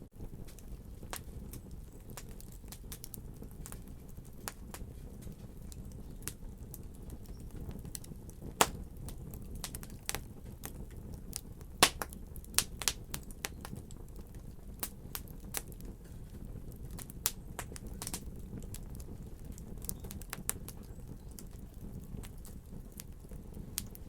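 Wood fire burning in a fireplace: a steady low rumble of flames with scattered sharp crackles and pops. Two louder pops come about nine and twelve seconds in.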